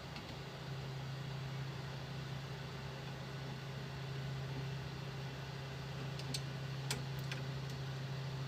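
A steady low machine hum, like a fan or small motor running, with a few light clicks about six to seven seconds in.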